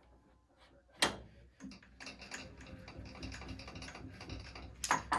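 A sharp click, then a machine running with a steady whine for about three seconds, stopped abruptly by another loud click near the end.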